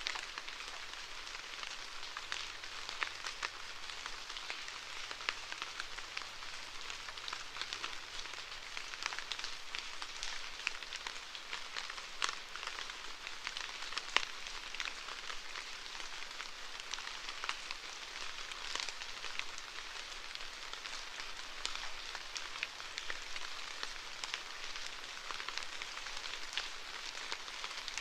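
Steady rainfall: an even hiss of rain with many separate drops ticking sharply on a hard surface at irregular moments.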